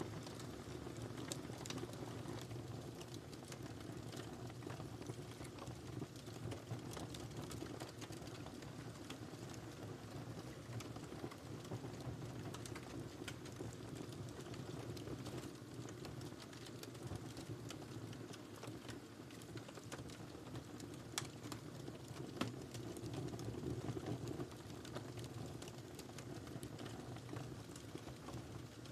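Wood fire crackling: many small irregular snaps and pops over a steady low rumble of the flames, with two sharper pops a little past the middle.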